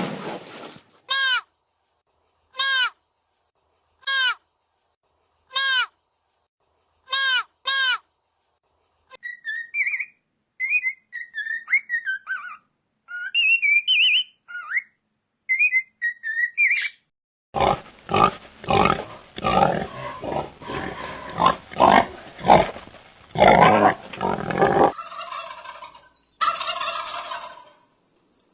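Calls of several different animals one after another. First comes a short call repeated six times, each falling in pitch. Then come high chirping squeaks, then a long run of rapid rough grunting pulses, and finally a drawn-out pitched call near the end.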